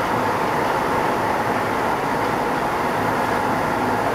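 Running noise of a renovated Keisei 3500 series electric train, heard inside motor car MoHa 3545 as it travels between stations. A steady noise that does not change in level.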